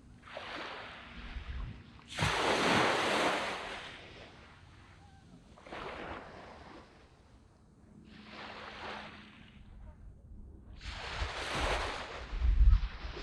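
Small waves breaking and washing up a sand beach, five surges of surf hiss a few seconds apart, the biggest about two seconds in. A brief low rumble near the end.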